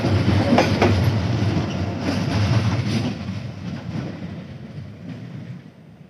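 Passenger train coaches rolling away on the rails, with the rumble of the wheels and a few clicks over the rail joints in the first second. The sound fades steadily as the last coach pulls away.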